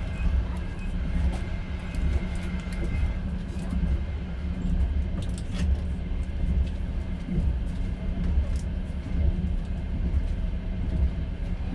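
Moving train heard from inside an open-plan sleeper carriage: the running gear gives a continuous low rumble, with scattered sharp clicks and knocks of the wheels on the track.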